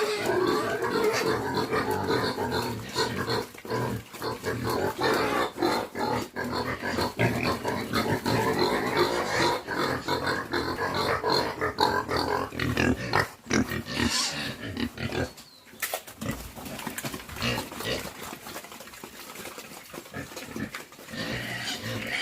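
A group of pigs grunting and squealing as they are fed, with many short clicks mixed in. The noise is loudest for the first two-thirds and drops off after a short break about 15 seconds in.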